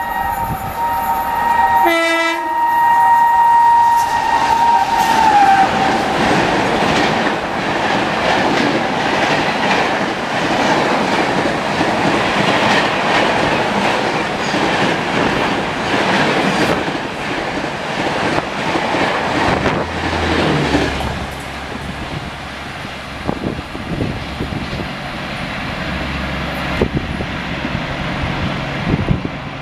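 WAP-4 electric locomotive sounding its two-tone horn on approach, the horn dropping in pitch as it passes about five seconds in. Then the loud rush and wheel clatter of the Superfast Express coaches speeding through at about 130 km/h, easing after about twenty seconds into a quieter low hum.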